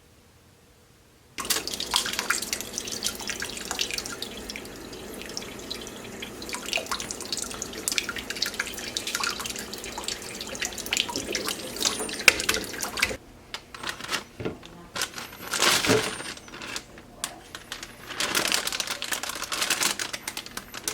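Water running and splashing, as from a tap into a sink, with small knocks and clinks. It starts about a second in, breaks off partway through and comes back in a few short bursts.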